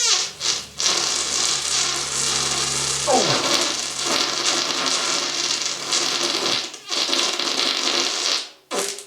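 A long, deliberately produced rasping fart lasting about eight and a half seconds, with two brief dips, a falling pitch partway through, and an abrupt stop near the end.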